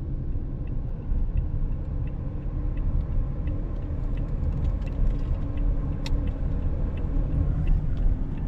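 Vehicle running on the road, a steady low rumble heard from inside, with faint ticks about twice a second.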